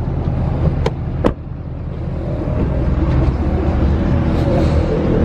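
Vehicle engine running steadily at idle, with two sharp clicks about a second in.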